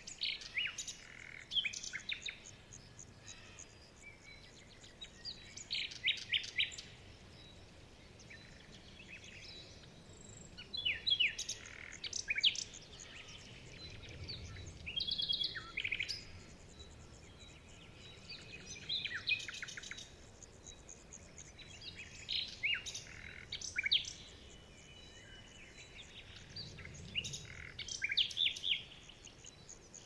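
Songbirds singing: short bursts of quick, high chirps and trills every few seconds, over a faint steady background hiss.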